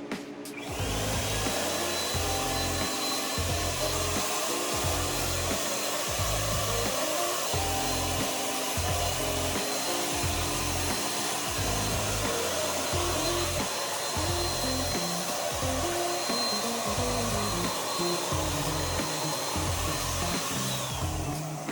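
Clear coat being sprayed onto the wood: a steady spraying hiss with a thin high whine, starting about half a second in and cutting off just before the end. Background music with a steady bass line plays under it.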